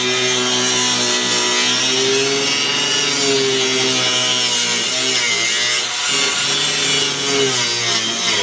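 Power tool cutting through a steel U-bolt to free a truck's leaf spring, running continuously with its pitch dipping slightly now and then.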